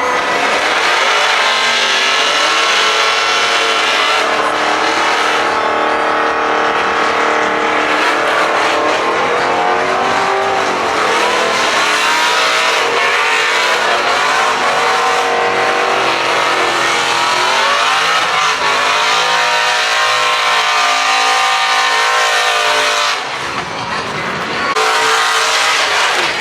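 Truck engines revving hard, the pitch climbing and falling again and again, loud and continuous over a rushing noise, easing briefly near the end.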